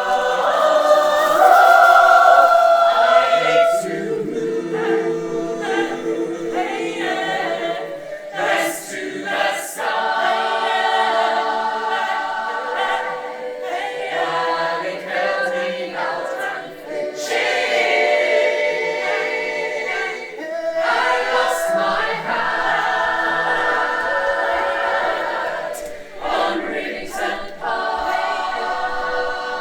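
Choir singing, several voices in harmony holding notes that change every second or two.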